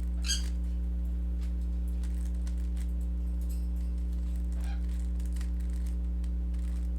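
Rubik's cube being turned: faint, irregular plastic clicks of the layers turning, over a steady low electrical hum.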